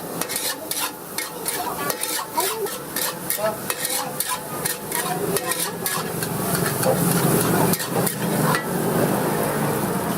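Rice frying in oil in a hot pan, sizzling steadily, while a metal spatula scrapes and strikes the pan about three times a second. The strokes thin out after about six seconds, with a couple of hard knocks near the end.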